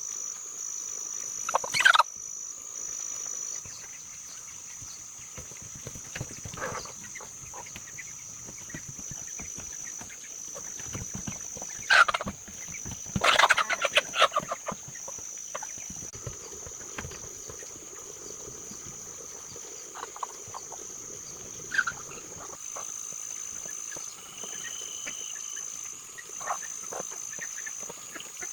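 Poultry calling outdoors: a call about two seconds in, another about twelve seconds in, then a quick run of calls, with a further call about two-thirds of the way through. A steady high-pitched whine with brief gaps continues behind the calls.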